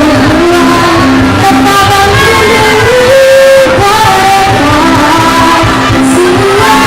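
Live music from a school ensemble: voices singing a melody over instruments, recorded loud and rough.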